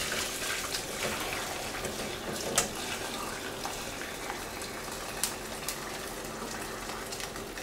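Hot chicken stock pouring steadily through a fine sieve, with a couple of sharp clicks along the way.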